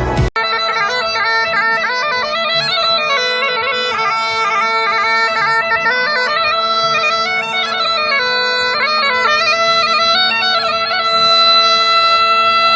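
Bagpipe music: a melody moving above a steady drone. About eleven seconds in, the melody stops and steady held notes carry on, a little louder.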